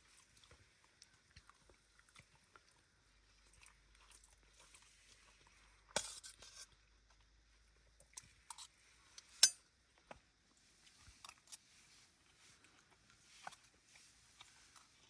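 Someone eating: quiet chewing with scattered small clicks and rustles, and a sharp ringing clink, like a utensil on a dish, about nine seconds in.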